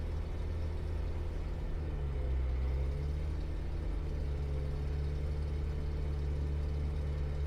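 Eurofox light aircraft's piston engine running at low power while taxiing after landing, a steady low drone that swells slightly for a moment about two seconds in.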